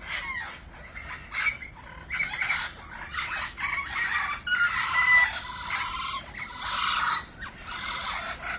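A flock of aviary budgerigars chattering and squawking without a break: many overlapping high chirps and squeals, making a lot of noise.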